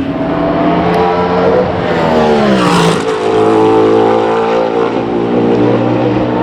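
Race car passing at speed: its engine note falls sharply in pitch as it goes by, about three seconds in, and an engine note then holds steady.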